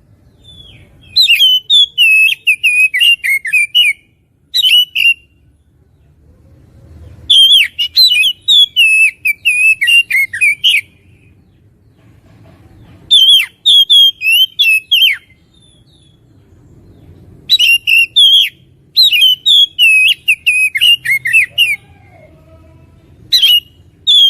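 Oriental magpie-robin (kacer) singing vigorously, in bursts of rapid, varied whistled and warbled notes. Each burst lasts one to three seconds, with short pauses between.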